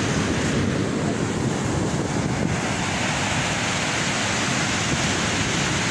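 Rough sea surf breaking steadily, with wind buffeting the microphone.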